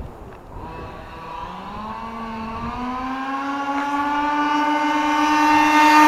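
Losi 5ive-T 1/5-scale RC truck's two-stroke gas engine running under hard throttle as the truck builds speed. Its note rises steadily in pitch and grows louder over several seconds.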